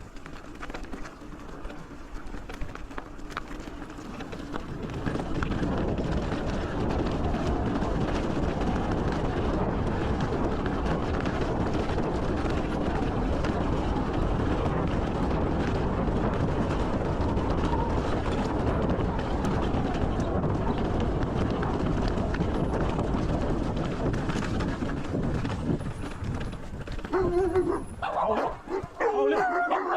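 Steady rushing noise of wind and tyres while riding a bicycle on a dirt track, getting louder about five seconds in. Dogs bark near the end.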